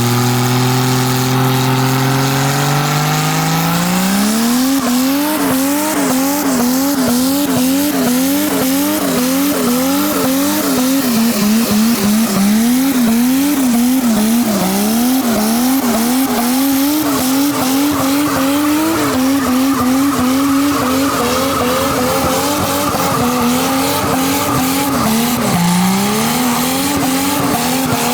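Nissan R32 Skyline's turbocharged RB20 straight-six revving up hard over the first four seconds in a burnout, then held high with its pitch swinging up and down over and over, while the rear tyres spin and squeal.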